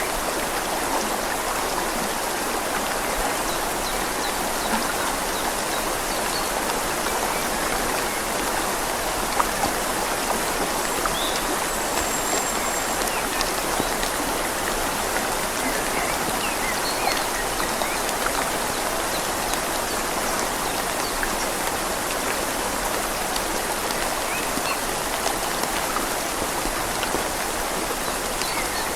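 Steady rain falling on leaves, mixed with the even rush of a flowing river.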